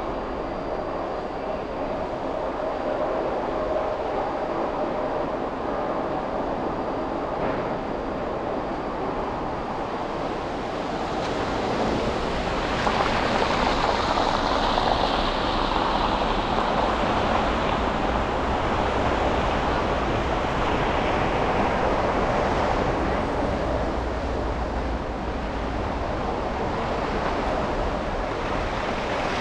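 City traffic and road noise heard from a car driving through streets after snow: a steady hiss of tyres and passing vehicles, growing louder about twelve seconds in.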